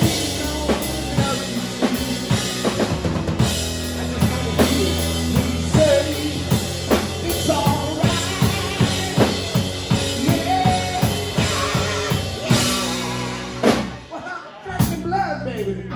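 Live rock band playing an instrumental passage: drum kit with snare and kick drum keeping a steady beat under bass guitar and electric guitar lines with bending notes. The band drops back briefly near the end before the drums come in again.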